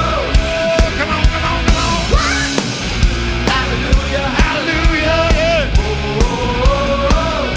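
Rock band music with a steady drum beat of about two hits a second under a melody line that bends up and down in pitch.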